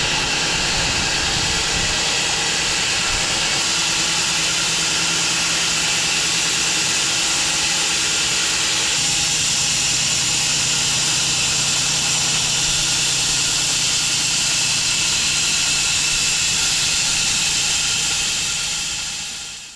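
Sawmill running under load as its blade saws through a log: a steady engine note under a loud hiss of cutting. The engine tone shifts slightly about nine seconds in, and the sound dies away near the end as the cut finishes.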